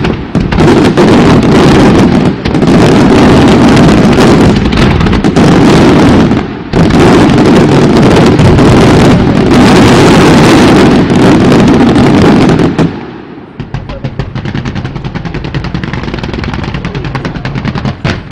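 Fireworks going off in a dense, rapid barrage of very loud bursts and bangs. About thirteen seconds in it drops to a quieter stretch of rapid small pops.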